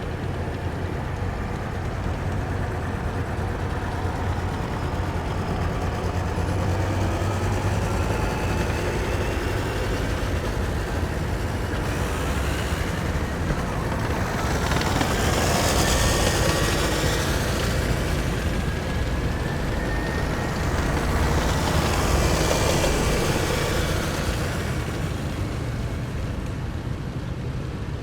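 Heavy military vehicles driving past in a column, their engines rumbling steadily. Two vehicles pass close, one about halfway through and another a few seconds later, each swelling and fading, and a whine rises in pitch as the first approaches.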